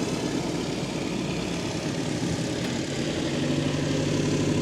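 An engine running steadily at low speed in the background, a continuous hum that grows a little louder about three seconds in.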